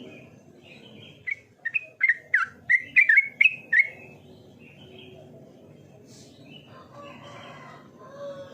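Yellow-vented bulbul (trucukan) singing: a quick run of about ten short, loud notes starting about a second in, then softer calls near the end.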